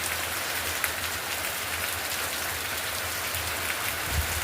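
Steady rain falling, an even hiss of drops on the ground and surfaces, with a brief low bump near the end.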